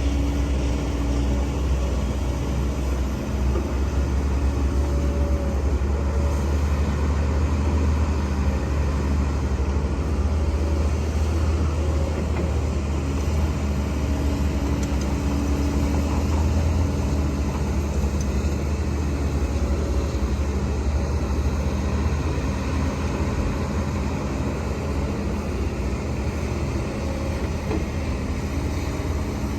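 Heavy diesel earthmoving machinery running steadily with a low drone, a fainter higher tone coming and going over it.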